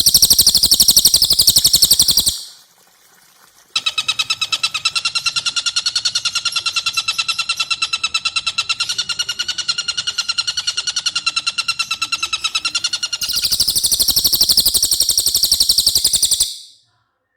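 Birdsong for bird training: a cililin's very high, rapid trill, then a tengkek buto's long fast laughing rattle of repeated notes, lower in pitch, lasting about nine seconds, then the high trill again near the end.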